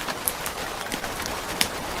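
Steady rain with a few sharp crackles and pops from a wood fire, three of them spread through these seconds.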